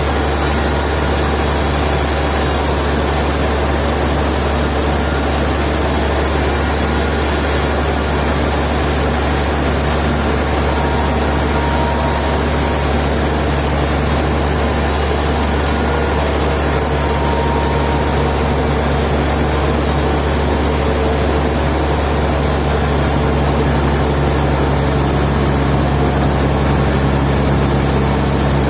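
Sawmill machinery running steadily: a loud, continuous low engine hum with a low tone that grows stronger in the second half.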